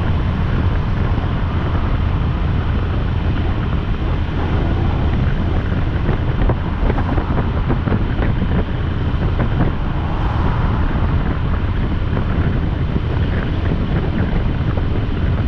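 Steady wind rush buffeting the microphone over the low, even rumble of a motorcycle riding along at speed.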